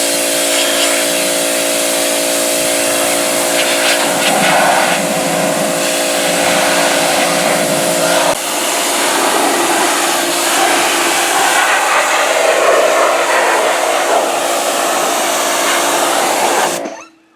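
Pressure washer running and spraying water, a loud steady hiss over a motor hum; the hum changes about halfway through and the whole sound cuts off suddenly near the end.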